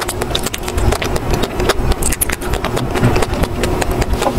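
A person chewing a bitten-off mouthful of frozen ice cream bar close to the microphone: irregular wet clicks and smacks over a low rumble.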